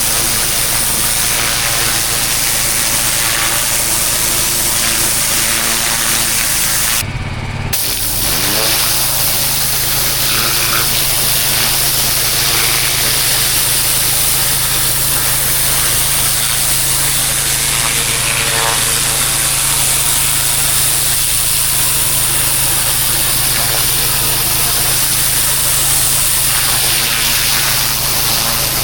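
Petrol pressure washer running steadily, its engine note under the loud hiss of a high-pressure water jet on block paving. About seven seconds in, the spray cuts out for a moment and a rising tone follows before the hiss returns.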